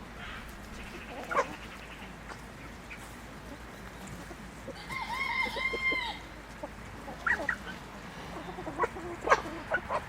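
Chickens clucking, with a quick run of repeated pitched call notes about halfway through and a few sharp, short calls near the end.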